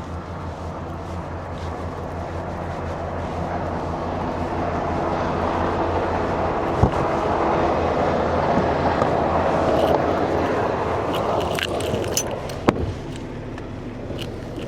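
A semi truck's diesel engine idling with a steady low hum, under a rushing swell that builds and fades over several seconds like traffic passing. Near the end there is metallic jingling and two sharp clicks, one about seven seconds in and one near the end.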